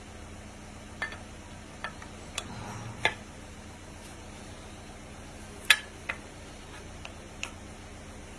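Scattered light clicks and clinks, about seven in all, the loudest about five and a half seconds in, over a steady low hum.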